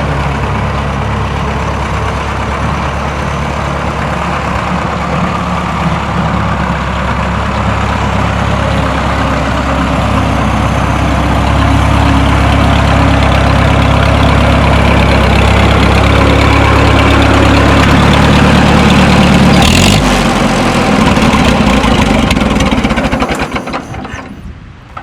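Minneapolis Moline tractor engine running steadily. Its level builds gradually through the middle. About 20 seconds in there is a sharp click, then the engine winds down and stops near the end.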